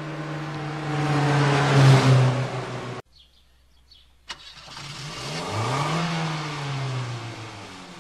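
Alfa Romeo Alfetta GT's engine running as the car drives, growing louder over the first two seconds. It cuts off abruptly about three seconds in, leaving a quiet gap with a few faint high chirps. The engine comes back just over a second later, its pitch rising and then falling away.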